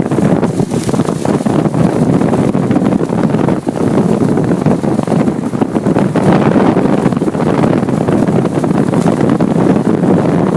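Wind buffeting the microphone on a moving motorcycle, a loud, steady rushing that flutters quickly, with the ride's road and engine noise mixed underneath.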